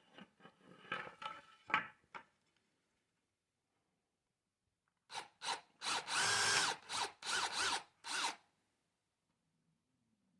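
Handheld power drill cutting into a basswood handle to hollow out the blades compartment, run in short on-off bursts: light bursts at first, then after a pause a louder run of about six bursts.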